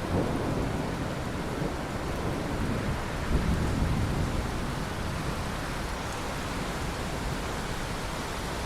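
Steady heavy rain with rolling thunder: one rumble at the start and a louder one about three seconds in, which then dies away under the rain.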